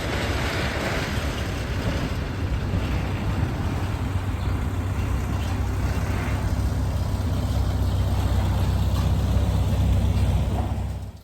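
Tractor engine running steadily with a deep, even rumble, stopping abruptly near the end.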